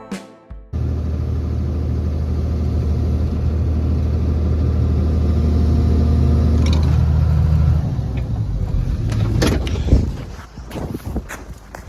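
Excavator's diesel engine running steadily under a second in, then turning rougher and dropping away about eight seconds in, followed by a few knocks and clunks.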